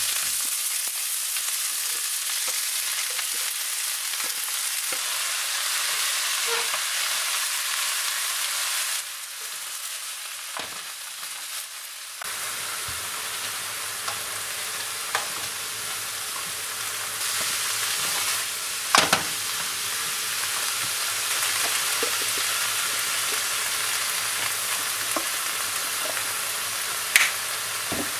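Chopped daikon radish leaves sizzling in sesame oil in a frying pan as they are stirred with a wooden spatula, the leaves giving up their water as they cook. The sizzle eases for a moment about ten seconds in, then picks up again, with a few sharp knocks of the spatula against the pan later on.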